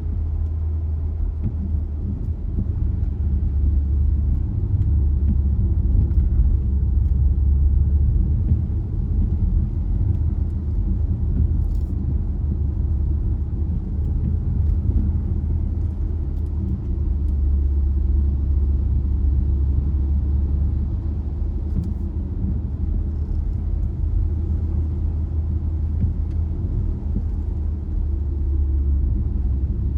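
Steady low rumble of a car being driven, engine and road noise, with a few faint ticks.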